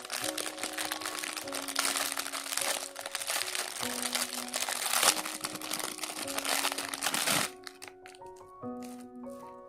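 Packaging crinkling as it is handled and opened, over background music with a simple melody. The crinkling stops about three-quarters of the way through, leaving the music and a few light clicks.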